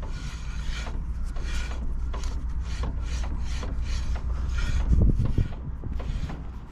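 Brake pads rasping against the brake disc as the front hub is turned by hand after the pedal is released, checking whether the caliper piston still binds; a rhythmic scraping about three times a second over a steady low rumble.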